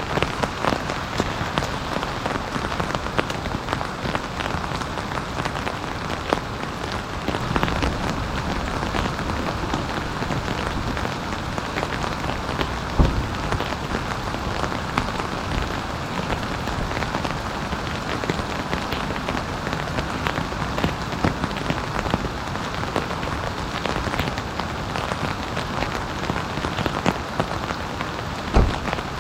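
Heavy rain falling steadily, a dense patter of drops striking a surface, with a few louder single drop impacts, one about halfway through and one near the end.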